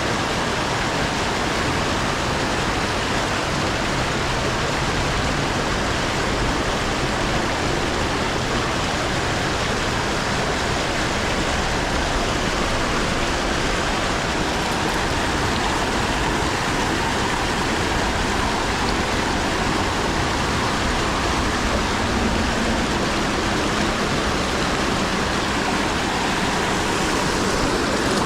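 Creek water rushing over a riffle, a steady, even rush of flowing water.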